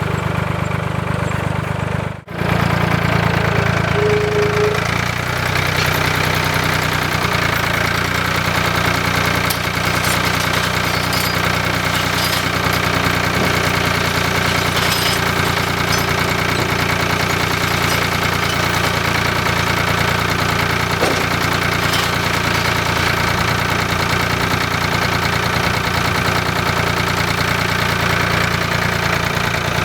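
An engine running steadily at a constant speed, cut off briefly about two seconds in.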